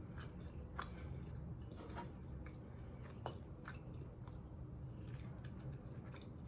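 A person quietly chewing food, with a few faint clicks, the sharpest about three seconds in, over a low steady hum.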